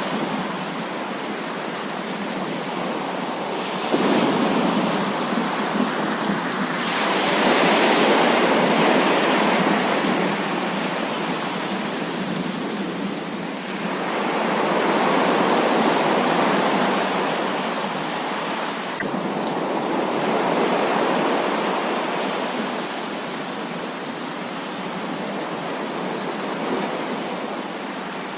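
Heavy rain pouring in a dense, steady hiss that swells and eases every few seconds. There is no deep rumble of thunder.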